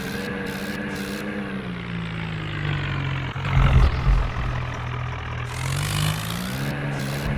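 Tractor diesel engine running. Its revs drop about two seconds in and climb back up near the end, with heavy low rumbling in the middle.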